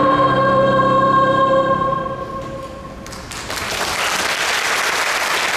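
Choir holding a final sustained chord that dies away about two seconds in, followed by audience applause breaking out a little over three seconds in.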